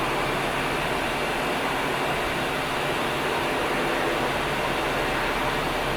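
Jet airliner engines running, a steady noise that holds at one level with no sudden events.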